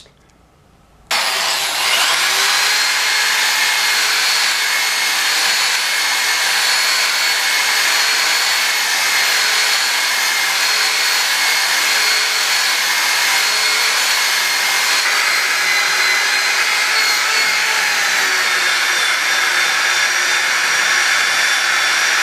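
Electric power buffer running steadily while buffing compound is worked into the deep scars of a chrome motorcycle muffler. It starts abruptly about a second in, with a high whine over a steady rushing noise that shifts slightly in pitch late on as the load changes.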